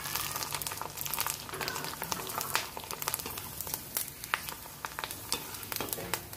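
A sabudana and potato papadi frying in hot oil: a steady sizzle with many small crackling pops while a slotted spoon turns and lifts it.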